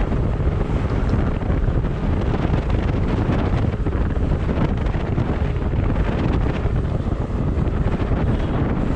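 Wind buffeting the microphone while travelling on a moving vehicle: a loud, steady rush of air with a low rumble.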